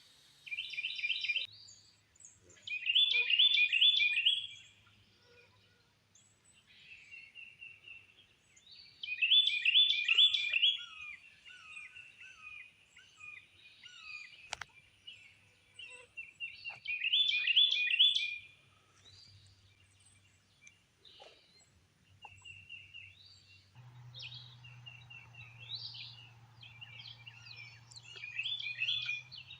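A songbird sings a loud phrase of quickly repeated notes about every seven or eight seconds, with quieter bird chirps in between. A steady low hum starts about three-quarters of the way through.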